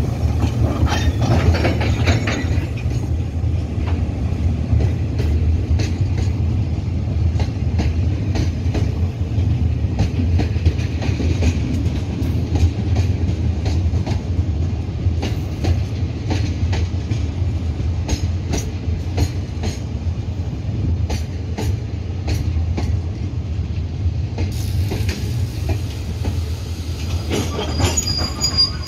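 Freight train of gravel-loaded open wagons rolling past: a steady low rumble with wheels clicking over the rail joints, and a high wheel squeal coming in near the end.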